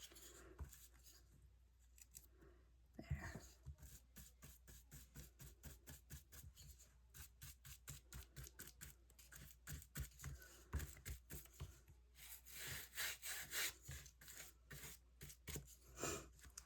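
Scissors cutting paper in a run of quick, faint snips, about three to four a second, with a short stretch of paper rustling near the end.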